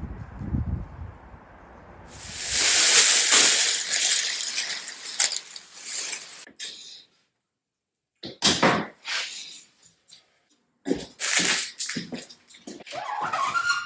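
Water running from a kitchen tap in several bursts: a long run starting about two seconds in, then shorter runs, with a brief rising squeak near the end.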